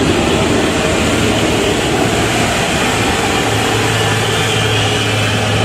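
Motor vehicle engine running steadily with road noise, a constant low hum under a wide rushing noise.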